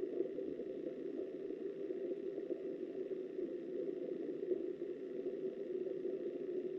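Steady, muffled rush of river water picked up by a submerged camera.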